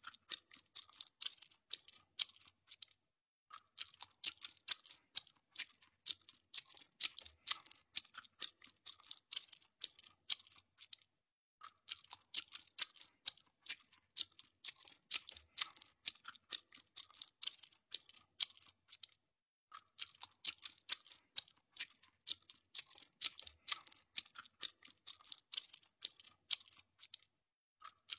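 Crunchy chewing sounds: dense, rapid clicks and crackles. About every eight seconds there is a brief silence, and the same stretch of sound then repeats.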